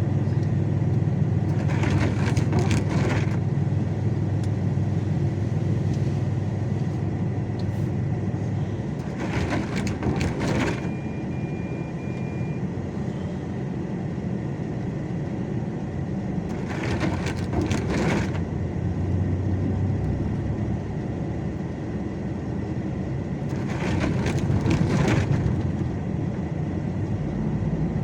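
A vehicle engine running steadily, with a rush of noise about every seven seconds.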